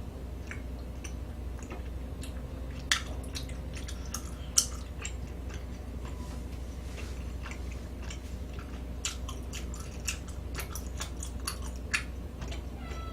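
A person chewing food with small wet mouth clicks, and a few sharper clicks scattered through, over a steady low hum.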